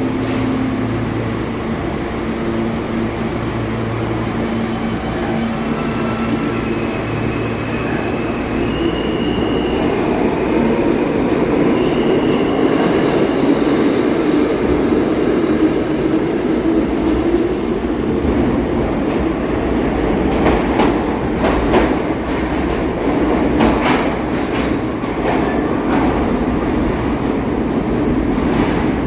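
A New York City subway train running on the rails with a steady rumble. Partway through there are a few high, held squealing tones. In the second half come a series of sharp clicks and clatter from the wheels over the track.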